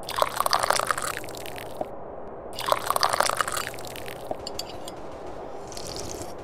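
Tea being slurped from a cup in two long, crackly sips, each about a second and a half, the second starting about two and a half seconds in.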